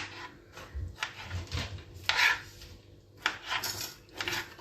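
Kitchen utensils scraping and knocking in a series of short, irregular strokes as chopped tomatoes are added to the pot.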